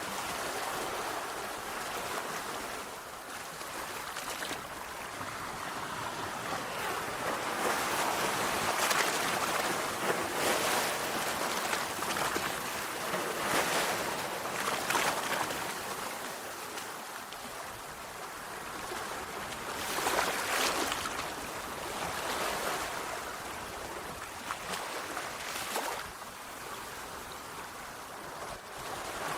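Sea waves breaking and washing onto a shore, a continuous rushing surf that swells and falls back every few seconds.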